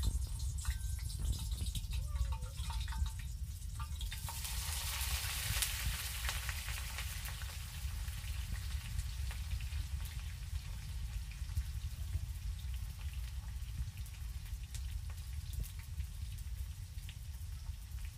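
Chopped onion frying in hot oil in a steel pan on a gas-cylinder burner. The sizzle rises sharply about four seconds in, then keeps up a steady crackling hiss over a low steady rumble.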